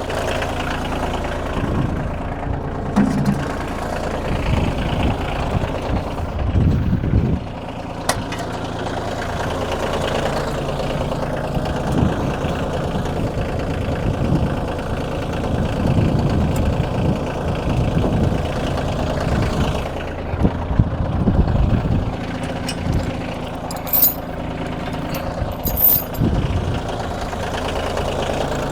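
Kioti compact tractor's diesel engine running under varying load while its front loader works, the engine note swelling and easing. A few short sharp knocks are heard.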